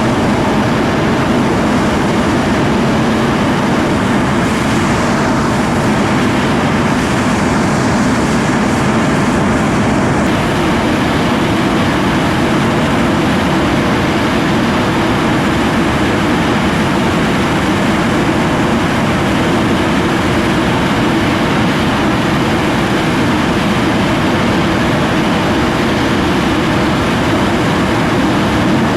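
An English Electric Lightning F6's twin Rolls-Royce Avon turbojets running loud and steady at high power, a dense jet roar with a strong low rumble; the hiss at the top eases a little about ten seconds in.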